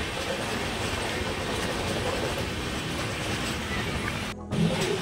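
Deccan Queen Express LHB coaches running on the rails, heard from aboard the moving train: a steady rattle and clatter of wheels on track. The sound drops out abruptly for a moment near the end.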